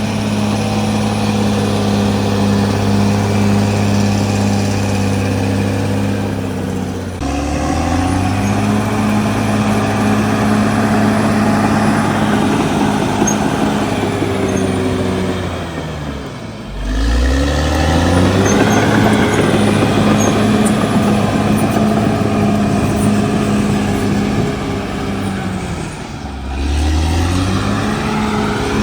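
CAT D6R XL bulldozer's diesel engine running hard and steadily, its note sagging briefly and climbing back up three times, about every nine to ten seconds.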